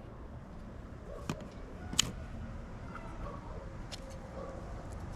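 A few sharp plastic clicks from handling the Saker handheld vacuum as its dust cup is opened to empty the filter, the loudest about two seconds in, over a faint low rumble. The vacuum's motor is off.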